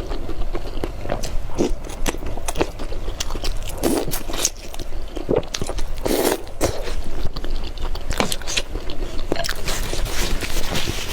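Close-miked eating of a spicy noodle dish: biting and chewing with crunchy bites and mouth clicks coming irregularly.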